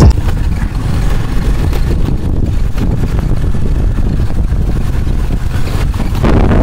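Motorcycle engine idling, a low steady rumble.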